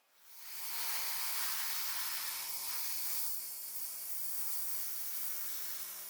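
A spray of paint hissing steadily for about six seconds, building up quickly at the start and cutting off suddenly at the end.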